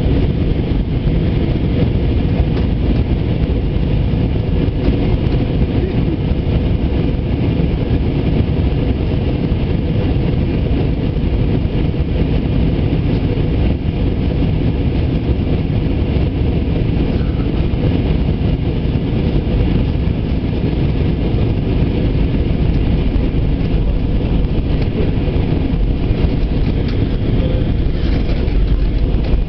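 Steady cabin noise inside an Airbus A320 in flight: a constant low rumble of engines and airflow, unchanging throughout.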